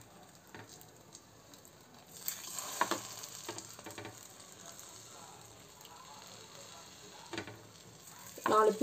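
Egg-dipped bread slices frying in a hot non-stick pan, a low sizzle that rises about two seconds in as a slice is laid down, with a few light taps as the slices are placed.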